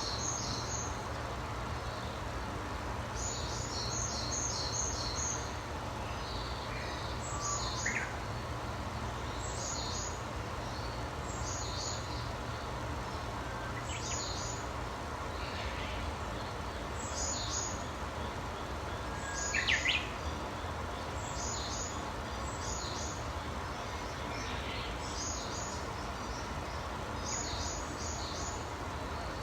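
Small birds chirping outdoors: short, high chirp phrases repeated about every two seconds, with a few lower, louder chirps mixed in, one just before the middle. A steady low background rumble runs underneath.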